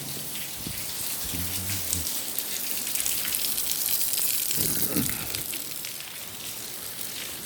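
Steady rain falling, a continuous hiss dotted with many individual drop ticks.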